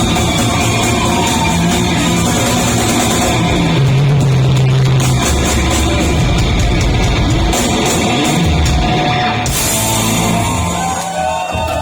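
Loud rock music with electric guitar, bass and drums, played live by a street busking band.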